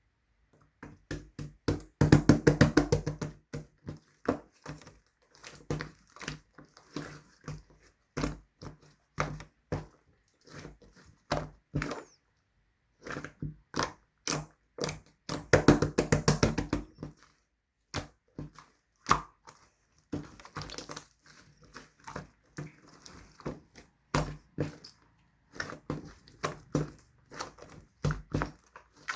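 Green clay slime being squished and pressed by hand, making many small sticky pops and clicks, with two dense rapid runs of them about two seconds in and again about fifteen seconds in.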